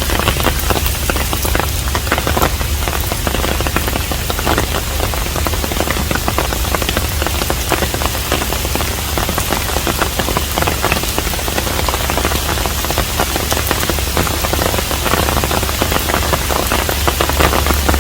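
Steady rain falling on a traditional Korean hanok, a dense hiss thick with individual drops striking close by, over a steady low rumble.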